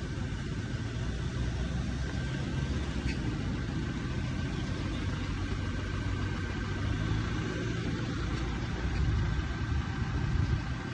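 Car engine idling with a steady low rumble, and a faint steady high whine above it.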